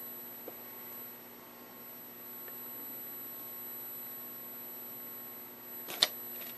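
Vintage Philco Predicta Princess tube TV chassis running with its high-voltage section live: a steady hum with a thin, high-pitched whine above it. A single sharp click sounds about six seconds in, while the high-voltage rectifier is intermittently arcing.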